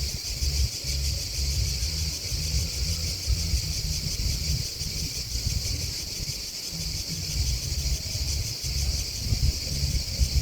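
A steady chorus of chirping insects, grasshoppers and crickets, high-pitched and unbroken. Underneath it runs a gusty low rumble of wind on the microphone, which dips briefly a little past the middle.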